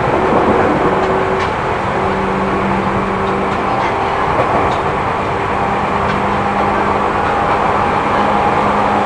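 Seibu New 2000 series electric train running at speed, heard from inside the passenger car: steady wheel and rail noise with a steady electrical hum.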